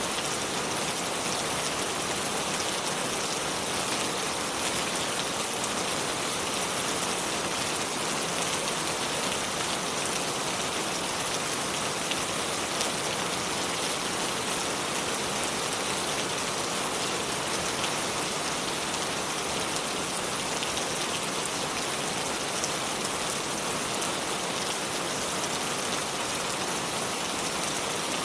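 Shallow river water flowing over stones: a steady, even rushing hiss with fine scattered splashes.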